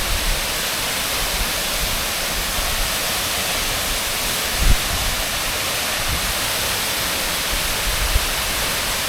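A large waterfall crashing down, a steady loud rush of falling water, with a brief low thump about halfway through.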